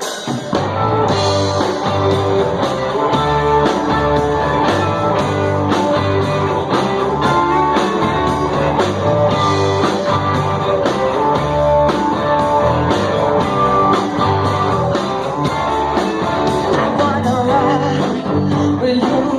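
Live garage-soul / blues-punk rock band playing a song with electric guitar, bass and drums, starting suddenly at full volume with a steady driving beat.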